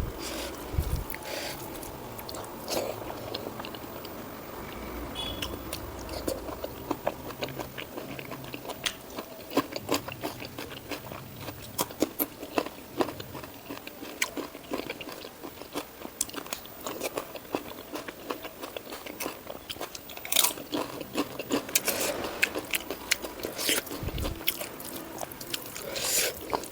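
Close-miked eating: a person biting and chewing crunchy food, with many irregular crisp crunches, a few louder bites in the last several seconds.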